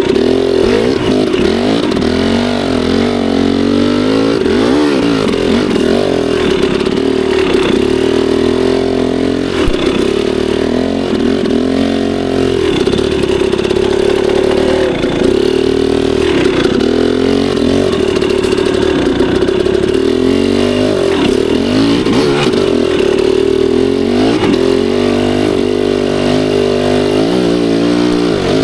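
Dirt bike engine running hard on a trail, its pitch rising and falling continuously as the throttle is worked on and off.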